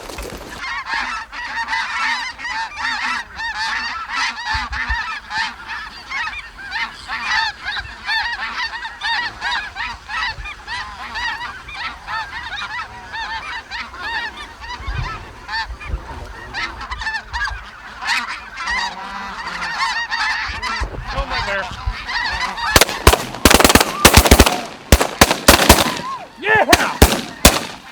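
A large flock of snow geese calling constantly overhead, a dense chatter of honks. About 23 seconds in, a rapid volley of shotgun blasts from several guns breaks out and lasts a few seconds, with the geese still calling.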